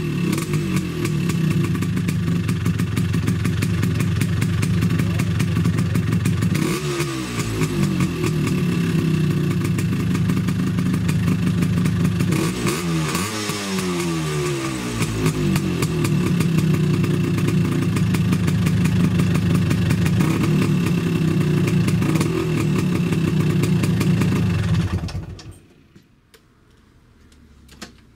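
Tuned two-stroke Vespa scooter engine running through a W1R Torque+ box exhaust, idling with a deep steady note and revved up and down briefly twice. Near the end the engine sound drops away sharply.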